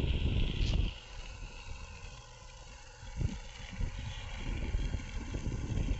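Electric skateboard rolling along a path: a low rumble of wheels and wind on the microphone, loud for about the first second with a click near its end, then dropping to a quieter rumble with scattered low thumps.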